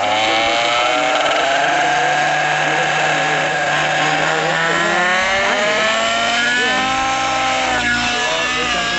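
Nitro radio-controlled helicopter (Avant EFX with a YS 91SR glow engine) in flight, its engine and rotor note sliding slowly down in pitch, then wavering and climbing again near the end as the pilot works the throttle and pitch.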